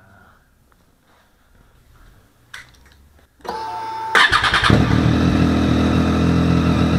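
Triumph Street Triple R's three-cylinder engine starting through an SC Project aftermarket exhaust. A click comes, then the starter whirs for under a second and the engine catches about four seconds in. It settles into a loud, steady idle.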